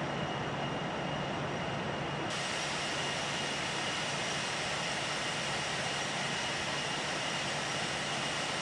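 Steady cabin noise of a Boeing 787-8 in its climb after takeoff: an even jet and airflow rush with a few faint steady whines. About two seconds in, the hiss turns abruptly brighter.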